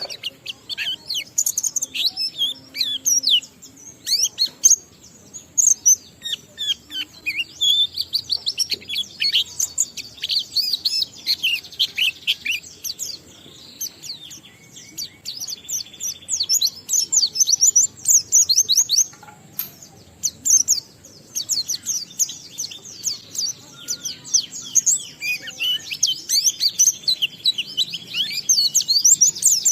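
White-eye (pleci) singing in the fast, wild 'ngalas' style: a rapid, continuous stream of high twittering chirps and trills laced with mimicked phrases (isian), with two short lulls partway through.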